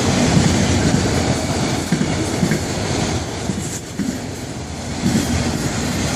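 Freight cars of a passing FEC freight train rolling by, wheels clacking over the rail joints, dipping briefly quieter about four seconds in.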